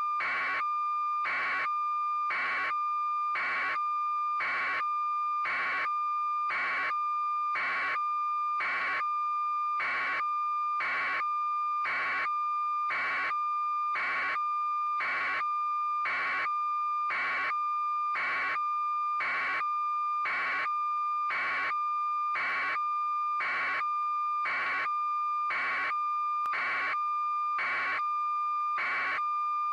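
Electronic beeping: a pulse about once a second over a steady high tone, repeating without change.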